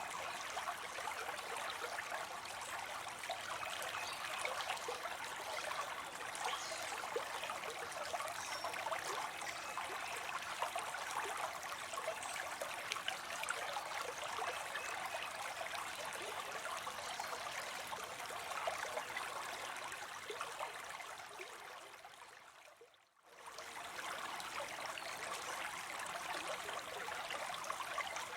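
Water spilling into a pond from a small fall: a steady splashing trickle. About 22 seconds in it fades away briefly and comes straight back.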